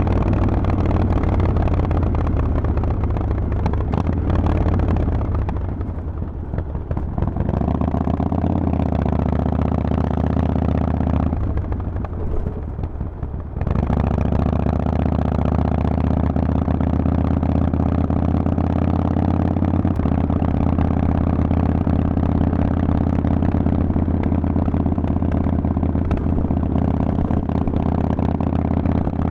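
Harley-Davidson Forty-Eight's air-cooled 1200 cc V-twin running through a Vance & Hines exhaust while riding. It goes quieter twice as the throttle is backed off, then pulls steadily with the revs rising slowly over the last half.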